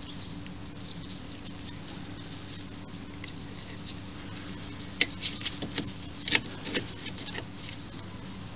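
Small metal tools and parts clicking and tapping in an irregular run starting about halfway through, over a steady low workshop hum. These are the sounds of handling small hand tools such as Allen keys while working on a small grub screw.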